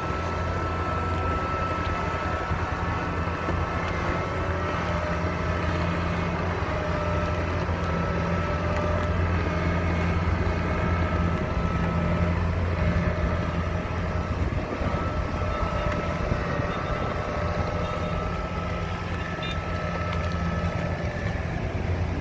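Diesel engine of a Kubota DC70 rice combine harvester running steadily with a deep drone and a thin, steady high whine, as the tracked machine works through very sticky mud.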